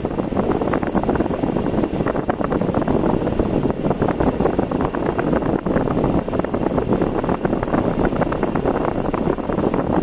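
Steady road and wind noise of a car driving, with a constant crackly flutter throughout.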